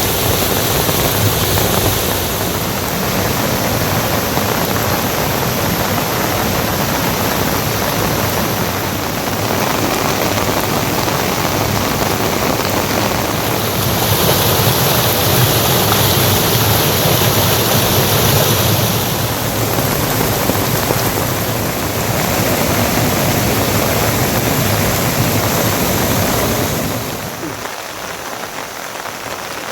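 Heavy rain falling steadily, a dense hiss that swells for a few seconds in the middle and eases near the end.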